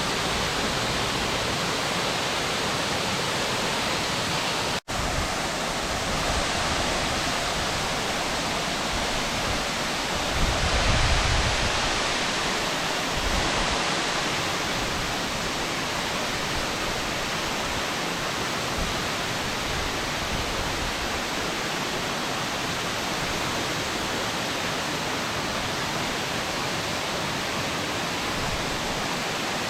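Waterfall water rushing in a steady, full-range roar. It drops out for an instant about five seconds in, and a low rumble swells briefly about ten seconds in.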